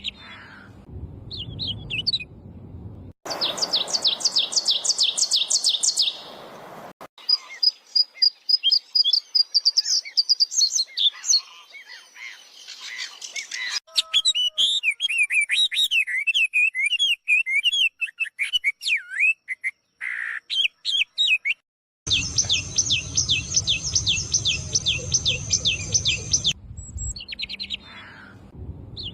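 Birds singing and chirping, with the sound switching abruptly several times. It includes fast runs of evenly repeated high notes, a varied warbling song and scattered chirps.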